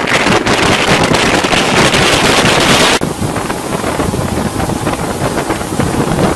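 Heavy wind rushing over the microphone on a boat under way, with the hiss of water. The noise drops abruptly about three seconds in, then carries on at a lower level.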